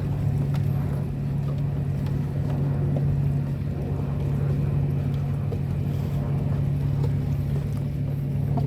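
A steady low engine hum that holds one pitch throughout, over a noisy background.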